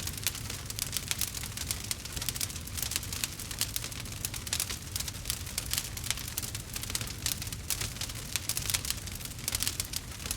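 Campfire crackling: a dense, irregular run of sharp pops and snaps from burning wood over a low steady rumble.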